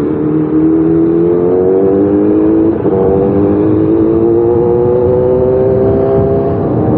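Kawasaki ZX10R inline-four engine pulling away under acceleration, its pitch rising steadily, with a brief break near 3 s like a gear change, then rising again.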